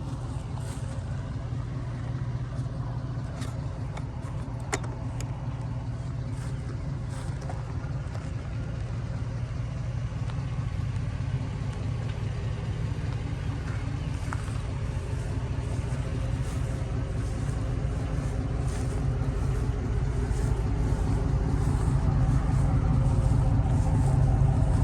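GMC Sierra's 6.0-litre LQ4 V8 idling steadily through a cat-deleted exhaust and a Flowmaster 40 Series muffler, growing gradually louder over the last half.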